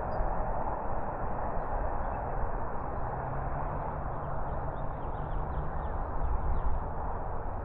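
Steady rushing of wind buffeting the camera's onboard microphones and tyre noise as an e-trike rides along, with a low rumble underneath. Faint high bird chirps come through in the middle.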